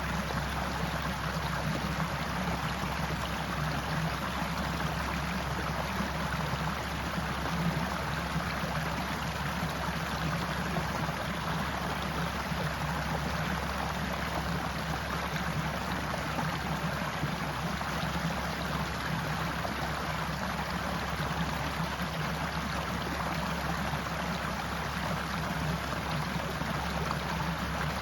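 Forest stream running steadily, a continuous even rush of flowing water.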